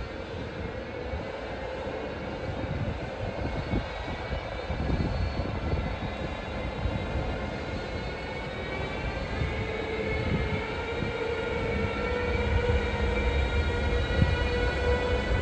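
Siemens Vectron electric locomotive pulling away with a train of empty coal wagons: several whining tones from its traction drive rise slowly in pitch over a low rumble, growing louder as it accelerates.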